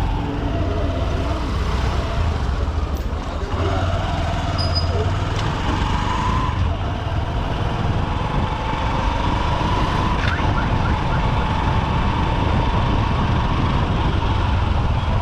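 A siren wails through the traffic, wavering in pitch near the start and then holding long, slowly rising notes, over the steady low rumble of the Honda SP125's single-cylinder engine and the road.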